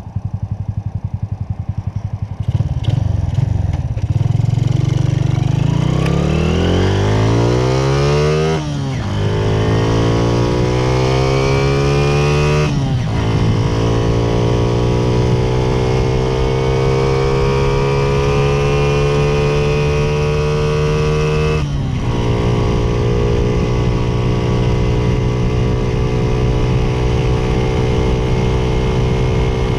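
Honda Cub single-cylinder four-stroke, fitted with a 56 mm big-bore kit, idling and then accelerating hard from a standstill: the engine note climbs, dips briefly at each of three upshifts, and then holds steady at full throttle near top speed. It runs without its air-filter box, which was taken off because the engine bogged at full throttle.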